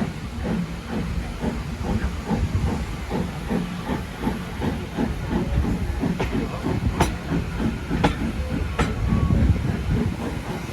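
Steam locomotive working, its exhaust beating rhythmically about three times a second over a hiss of steam. Three sharp clicks come in the second half.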